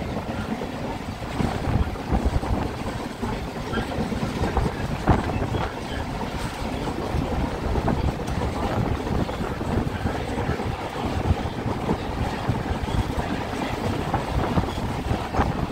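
Passenger train rolling steadily along the track, heard from aboard: a continuous rumble of wheels on rail with a few faint clicks, and wind on the microphone.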